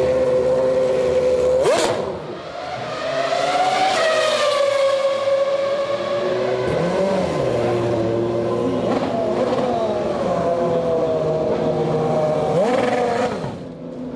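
Car engine running hard, its pitch climbing and falling repeatedly as it accelerates and eases off. The level dips briefly about two seconds in and again near the end.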